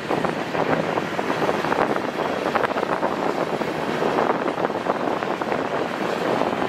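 Freight cars rolling past on steel rails: a steady rattle of wheels with many sharp clicks and clanks.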